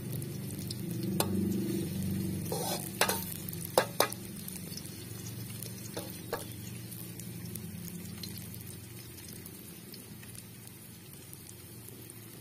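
Chopped shallots and garlic frying in an aluminium wok over a wood fire, a steady hiss that fades off, while a metal spatula stirs and knocks against the pan a few times in the first half.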